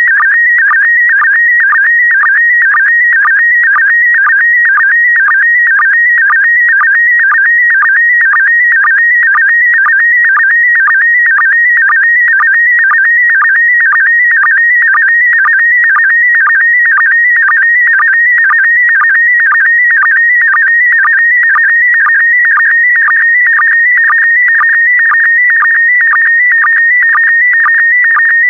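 Slow-scan TV signal in PD120 mode: a continuous high-pitched warbling tone, its pitch shifting as the image is scanned, broken by a short dip about twice a second as each pair of picture lines is synchronised.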